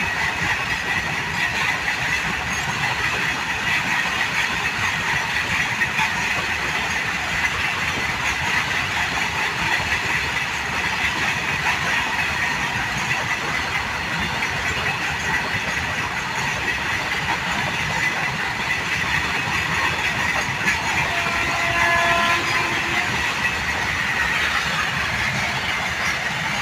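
Train running on the track, a steady noise throughout. A short pitched tone with several even overtones sounds briefly about three-quarters of the way through.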